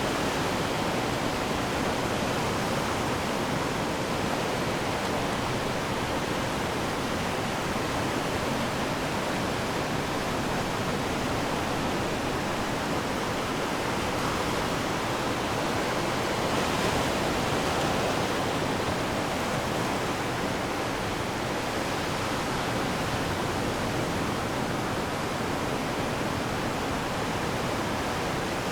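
Ocean surf washing onto the shore: a steady rush of breaking waves that swells slightly a little past halfway.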